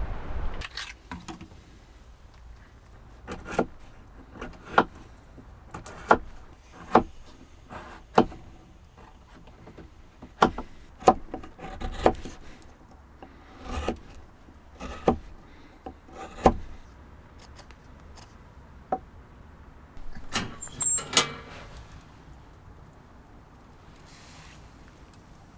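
A series of irregular sharp clicks and knocks, about twenty in all, spaced unevenly, with a short, denser cluster a little past the middle.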